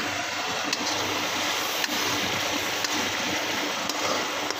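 Chicken and tomatoes cooking in ghee in a karahi: a steady sizzling and bubbling hiss, with a couple of faint clicks.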